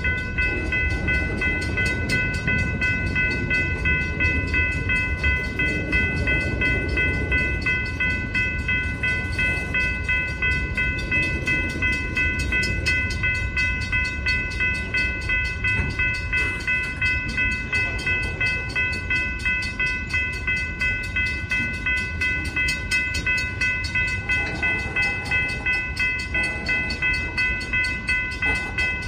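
Freight cars, boxcars and then tank cars, rolling past, their wheels rumbling steadily on the rails. Over it a railroad grade-crossing warning bell rings without a break, a steady high ringing.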